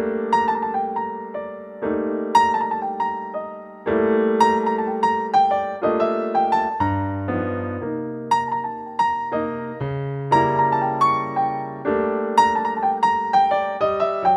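Background piano music: gentle melody notes over sustained chords that change about every two seconds.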